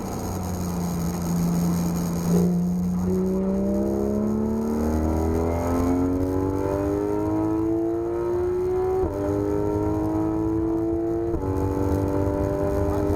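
Porsche 991 GT3 RS naturally aspirated flat-six pulling hard under full throttle, its pitch climbing steadily through one long gear. Two quick upshifts follow in the second half, each a short dip in pitch before it climbs again.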